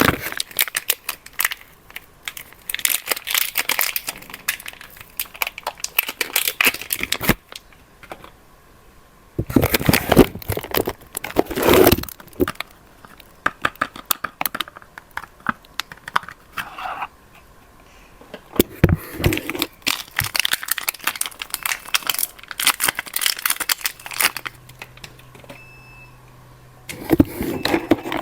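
Soap-bar wrappers being torn open and crumpled by hand: several bursts of crinkling and tearing a few seconds long, with short pauses between.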